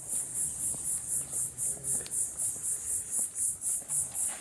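Insects calling in a high, even pulsing chorus, about three pulses a second.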